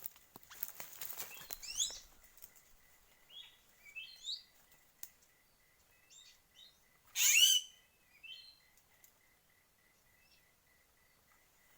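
Birds calling: scattered short high chirps and one loud call sweeping downward about seven seconds in. Underneath runs a faint, steady ticking pulse about three times a second.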